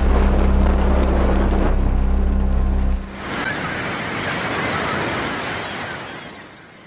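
Rushing wind and waves of a yacht sailing in rough, windy seas. A low held music note sounds under it for about three seconds, then stops; the rush carries on alone and fades out near the end.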